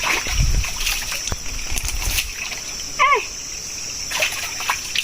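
Clear spring water trickling and splashing as it runs down a channel at the swamp, with uneven splashes and a few low thumps in the first two seconds. A short call with a bending pitch cuts in once, about three seconds in.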